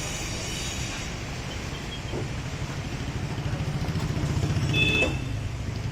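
Tractor engine running with a steady low pulsing, growing louder about four to five seconds in, when a brief high tone sounds.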